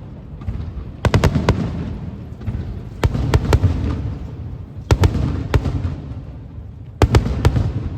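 Aerial fireworks shells bursting overhead: clusters of two or three sharp bangs about every two seconds, each followed by a low, echoing boom.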